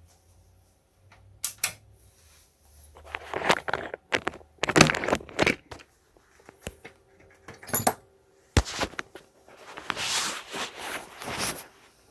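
Irregular small clicks, knocks and rustling scrapes of hands handling parts and tools on a workbench, with a sharp click just before 2 s and a dense run of scraping bursts in the middle and again near the end.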